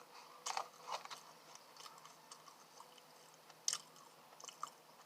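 Close-miked chewing: wet mouth clicks and smacks at an uneven pace, with one sharper smack about three and a half seconds in.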